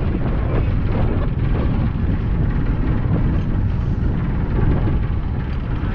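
Steady low rumble of the 1951 ferry Thomas Rennie under way, heard from on board.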